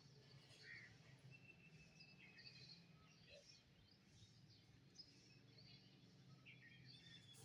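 Faint songbirds chirping, with short sharp notes throughout and one thin whistle held for about a second and a half, over a steady low hum.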